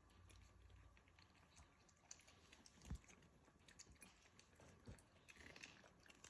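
Puppies playing, heard faintly as scattered light clicks and taps, with one soft thump about three seconds in.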